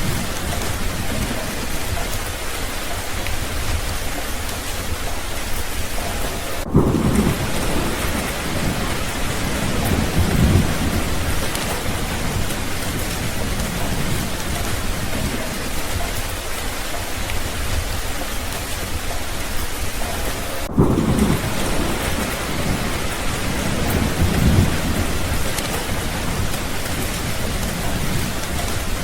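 Steady heavy rain with low rolling thunder: two rumbles about a quarter of the way in and two more about two-thirds through, each pair starting just after a brief break in the sound.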